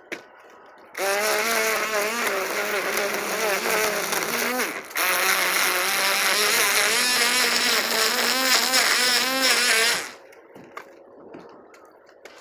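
String trimmer (weed eater) running at high speed for about nine seconds, its pitch wavering up and down, with a brief dip about four seconds in, then cutting off near the end.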